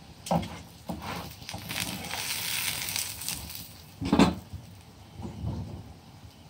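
Stuffed paratha frying in oil on a tawa: a sizzling hiss that swells through the middle, with a few knocks against the pan, the loudest a little after four seconds in.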